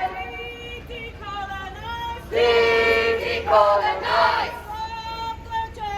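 Crowd of marchers chanting "Decolonize!" twice, two loud group shouts a little over a second apart, with quieter calling between them.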